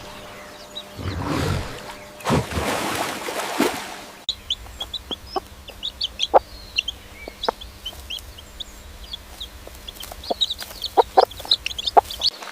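Chickens clucking in short, sharp notes, with quick high peeping chirps above them, beginning after an abrupt cut about four seconds in. Before the cut there are several seconds of loud, noisy rushing sounds.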